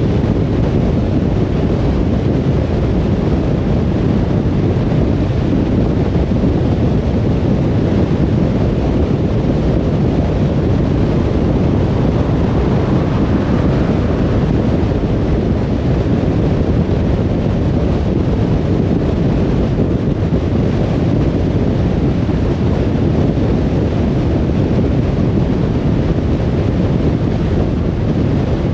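Steady road noise of a moving car: a constant low rumble of tyres and wind.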